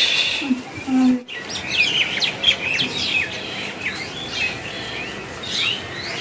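Small birds chirping, with many short, quick calls overlapping and coming thick and fast after the first second or so.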